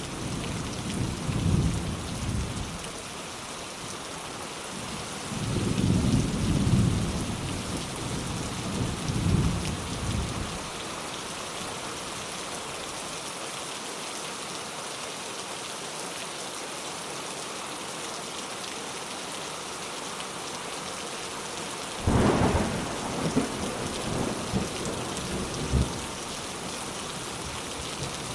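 Steady rain falling, with low thunder rumbling in swells through the first ten seconds. About three-quarters of the way through, a sharper thunderclap breaks in and rumbles on for a few seconds.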